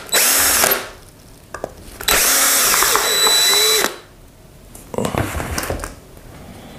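Electric drill-driver spinning out the nuts on the LPG reducer's mount in bursts. There is a short run at the start, a longer run of about two seconds in the middle, and a weaker one about five seconds in.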